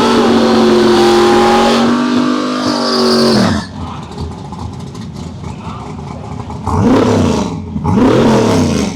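Drag car engine held at high revs, then let off about three and a half seconds in with the pitch dropping. Two quick throttle blips follow near the end.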